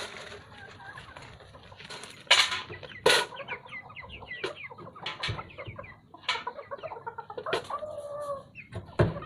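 Young Indonesian village chickens (ayam kampung) clucking and chirping in quick short calls while they are being fed, with one longer drawn-out call a little past eight seconds in. A few sharp knocks stand out, the loudest about two and a half and three seconds in, and another near the end.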